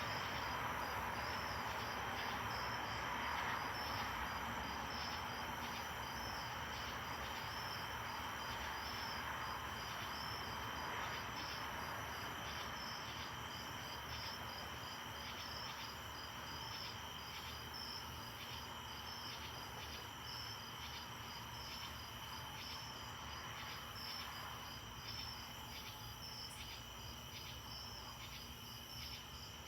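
Crickets and other insects chirping steadily in an even, repeating rhythm over a continuous high insect trill, with a soft background hiss that slowly fades.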